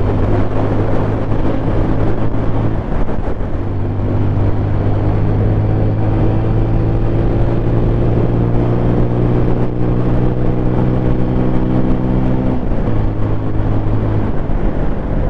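200 cc single-cylinder motorcycle engine running under way, its pitch slowly rising as the bike gains speed, then dropping suddenly near the end as the throttle is eased or a gear is changed, with road and wind noise under it.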